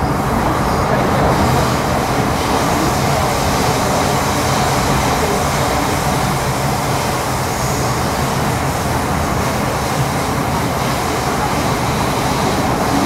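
Steady running noise heard inside a moving MTR Metro-Cammell M-Train car (CT-stock C243, GEC GTO chopper traction): an even rumble and hiss of wheels, motors and car body at speed.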